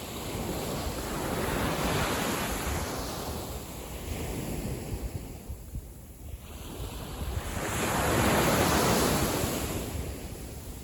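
Small sea waves breaking and washing on a beach, swelling twice about six seconds apart, with wind rumbling on the microphone.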